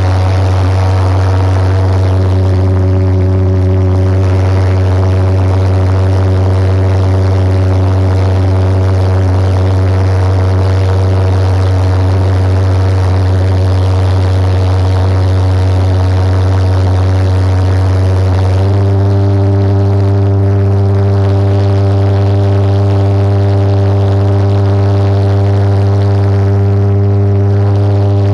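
Homemade pulse jet engine on a go-kart running at about half throttle, a loud steady low drone with a buzzing stack of overtones. About two-thirds of the way in, the drone grows stronger.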